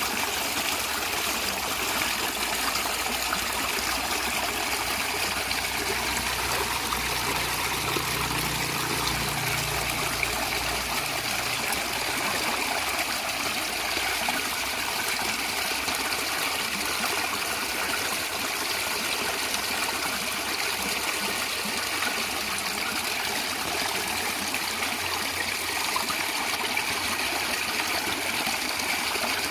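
Natural stream of water gurgling and trickling steadily, with a faint low rumble from about six to eleven seconds in.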